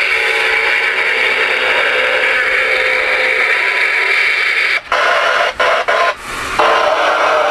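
Ranger RCI-69FFC4 ten-meter radio receiving, its speaker giving out steady loud band static and hiss. Near the end the hiss cuts out briefly several times in quick succession.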